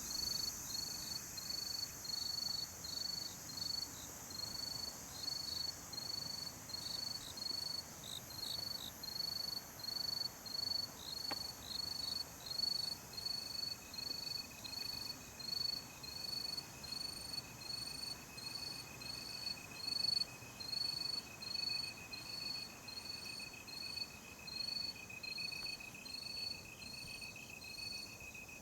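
Night insects: a cricket chirping in an even rhythm, a little over once a second, over a steady high-pitched insect trill; a second, lower steady trill joins about twelve seconds in.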